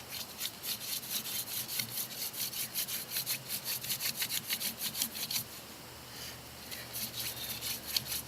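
Mullein hand-drill spindle spun between the palms on an eastern white cedar hearth board: a fast, dry rubbing of about five or six strokes a second, with a short break just past halfway before it resumes. This is friction-fire drilling, building hot dust toward an ember.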